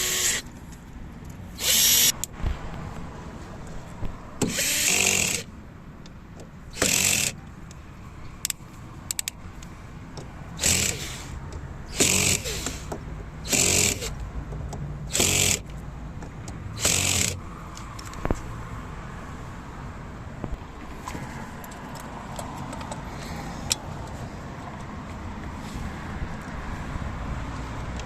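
Power drill running in about nine short bursts over the first half, then stopping.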